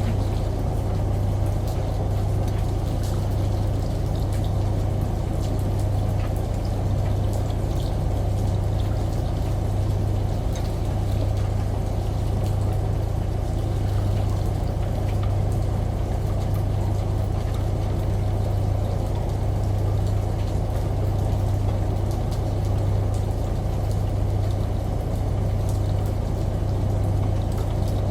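Layered ambient mix: a washing machine's steady low hum under a continuous wash of running water, with faint scattered drip-like ticks on top.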